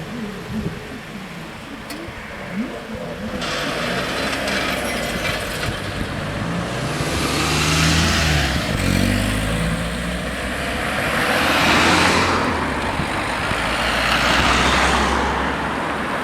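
Road vehicles driving past and over a level crossing one after another, each passing swelling and fading, with a steady low engine hum under the later part.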